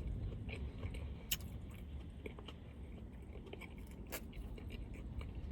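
A person chewing food with the mouth close to the microphone, with a couple of sharp clicks, over a low steady hum.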